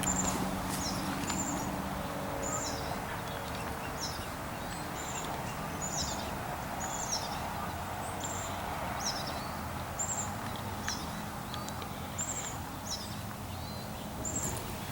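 Small songbird giving short, high, down-slurred chirps, about one a second, over a steady background hum of open air.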